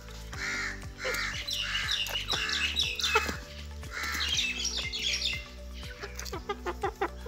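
Aseel chickens calling over background music: a run of about six short, evenly spaced calls in the first four seconds, then quicker, higher chirps.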